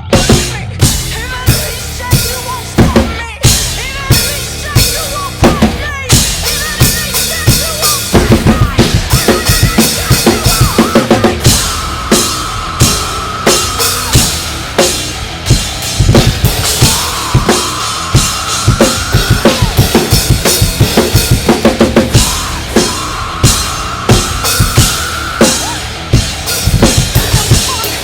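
Rock drum kit played along with a heavy rock song's recording: steady kick, snare and cymbal hits, with stretches of rapid kick-drum strokes, over the track's held melodic lines.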